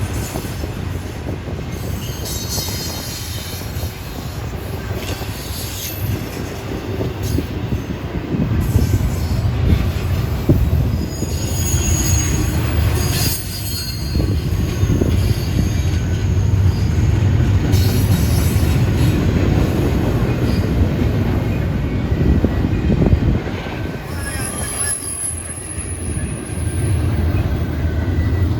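CSX double-stack intermodal freight train rolling past: a steady rumble of wheels on rail. Thin high-pitched wheel squeals come briefly about halfway through and again near the end.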